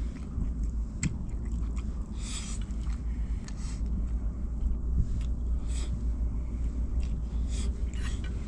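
A person eating with chopsticks from a small pan: chewing, with a few light clicks of the chopsticks against the pan, over a steady low rumble.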